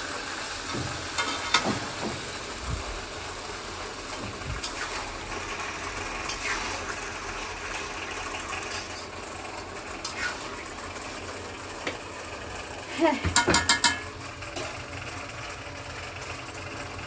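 Food sizzling as it fries in aluminium karahis on a gas stove, with a metal spatula stirring and scraping against the pans and an occasional click. About two-thirds of the way through comes a quick run of metal clinks, the loudest sound here.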